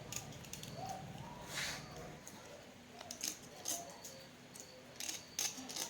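Scattered light clicks, taps and a brief scrape of hand work on small parts, with a low hum that stops about two seconds in.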